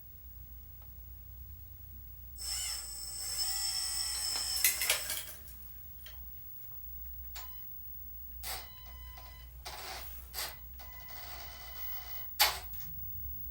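Small electric motors of a hydraulic-converted Huina RC dump truck whining in two short, high-pitched runs, the first and louder about two seconds in. Clicks and light knocks of the truck's moving parts fall between and after them, with one sharp click near the end.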